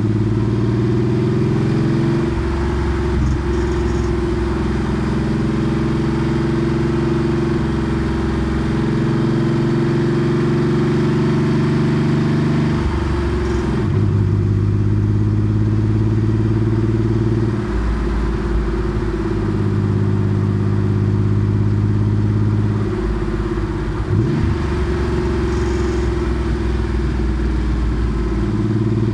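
Porsche 964 Carrera 2's air-cooled flat-six running through a straight-through center muffler while driving, a steady exhaust note that shifts in pitch a few times as engine speed changes.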